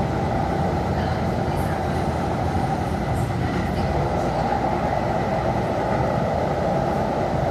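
Heavy rain: a steady rushing noise with a low rumble underneath, even throughout.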